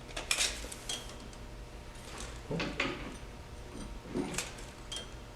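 A few scattered light knocks and rattles of metal parts being handled and adjusted, over a low steady hum.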